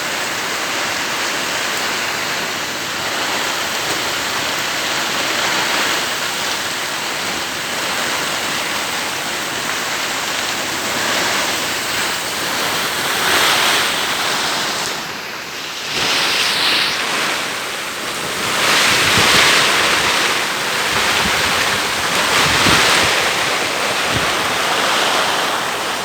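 Heavy rain pouring down in strong wind, a steady rush that swells louder several times in the second half as gusts come through, with wind buffeting the microphone.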